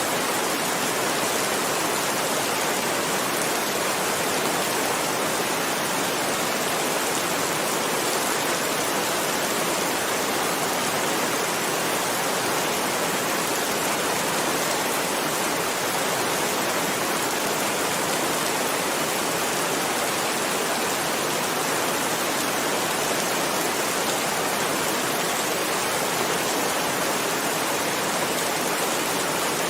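Heavy rain falling steadily: a dense, even hiss with no breaks or separate drops standing out.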